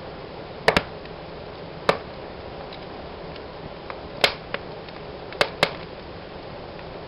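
Wood fire burning in a fireplace: a soft steady hiss broken by about half a dozen sharp crackles and pops, two of them in quick pairs.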